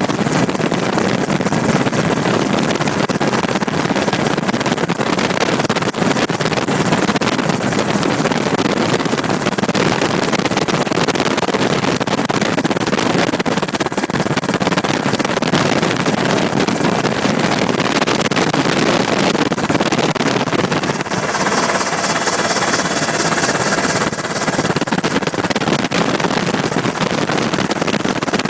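Steady, loud noise of an aircraft in flight heard from on board: engine and rushing air. For a few seconds about three-quarters of the way through, a brighter hiss with a faint whine rises over it.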